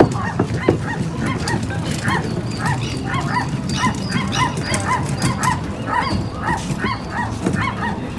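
A chorus of many animals giving short repeated calls, several a second and overlapping, over a low rumble.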